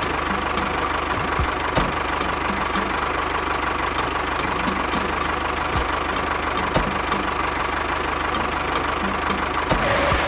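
Mini tractor engine running steadily at idle with an even knocking beat and a constant whine.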